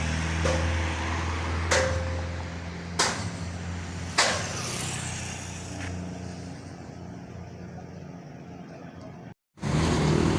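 A large vehicle's engine running steadily, with four sharp knocks in the first half before it slowly fades, then an abrupt cut to a louder stretch of engine noise.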